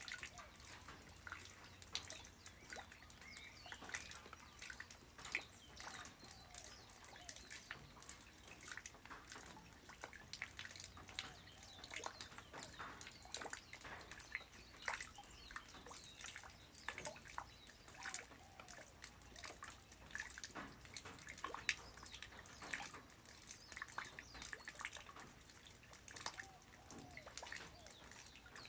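Light rain falling on the ground: an irregular patter of many separate drops and drips.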